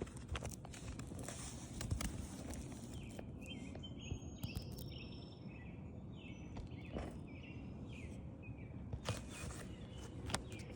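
Faint outdoor background noise with scattered light clicks and scrapes of asphalt shingles being handled on the roof. Small birds chirp several times around the middle.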